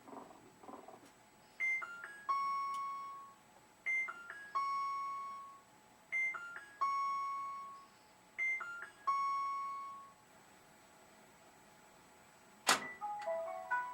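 Whirlpool Cabrio washer control panel beeping its error alert: a short electronic tune of a few quick notes ending on one long held tone, played four times about two seconds apart. Near the end comes a click and a quick run of stepped chime notes.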